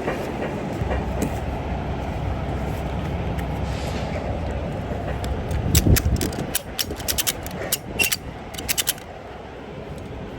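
Steady engine rumble, with a quick run of sharp metallic clicks and clanks from about six to nine seconds in, after which the rumble is quieter.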